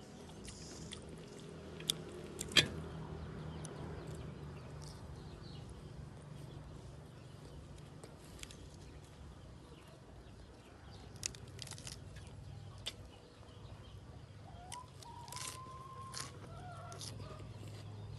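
Close-up eating sounds from a pork leg mukbang: scattered sharp clicks and crunches of biting and chewing over a steady low hum. Near the end comes a drawn-out, slightly rising animal call, likely a bird.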